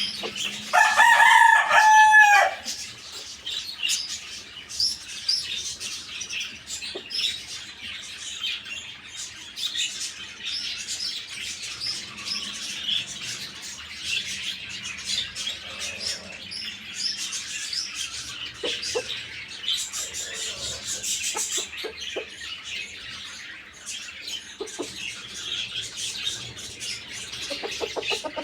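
A rooster crows once, loud and drawn out, dropping in pitch at the end, about a second in. After it, a steady chatter of small birds chirping runs on, with a few short clucks from the chickens.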